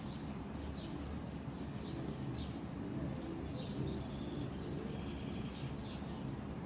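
Small birds chirping: short high chirps scattered through, with a run of steady high notes a little past the middle, over a steady low background rumble.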